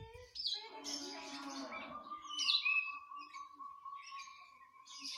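Songbirds singing: varied high chirps and trills, then from about two seconds in a long, even whistle held for about three seconds.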